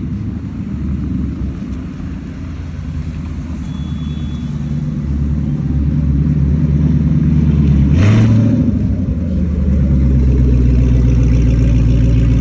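Car engine running with a steady low hum. About eight seconds in there is a sharp burst and the engine note rises briefly, then it settles into a louder, steady run.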